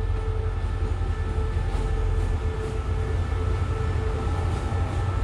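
Diesel locomotive engine running with a steady low drone and a held engine tone.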